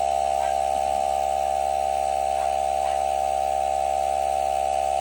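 Portable electric air inflator running with a steady, unchanging drone, pumping air into a water heater expansion tank's air bladder side toward a set 55 psi.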